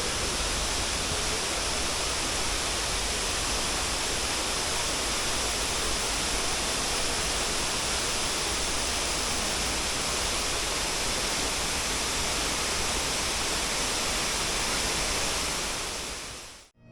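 Steady rushing of falling water, fading out just before the end.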